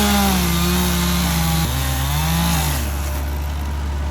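Chainsaw running under load while cutting a dead tree, its engine pitch sagging as it bogs in the cut, then dipping sharply, rising and falling again.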